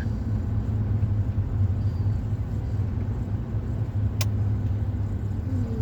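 Steady low road rumble of a car moving, heard from inside the cabin, with one sharp click about four seconds in.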